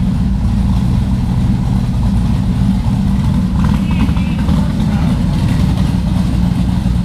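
Twin-turbo 427 LSX V8 of a first-generation Camaro race car idling steadily with a deep, even rumble. Faint voices come in briefly about halfway through.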